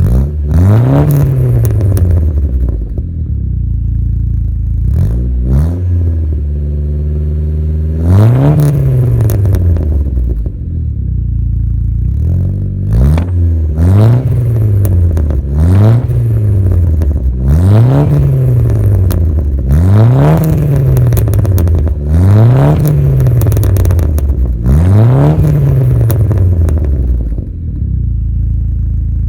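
Saab 9-5's B235R 2.3-litre turbocharged four-cylinder engine, breathing through a catless 3-inch turbo-back exhaust with a single Magnaflow muffler, revved in about nine quick blips, most about two seconds apart. It drops back to idle between blips and settles at idle near the end.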